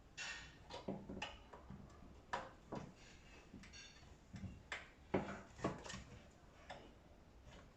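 Irregular light clicks and knocks of tumble dryer parts being handled and fitted together, about a dozen sharp taps spread unevenly, with a brief high squeak about four seconds in.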